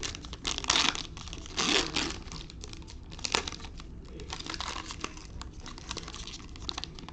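Plastic trading-card pack wrapper being crinkled and torn open by hand, with irregular rustles, the loudest about a second in and near two seconds, and a sharp snap a little after three seconds.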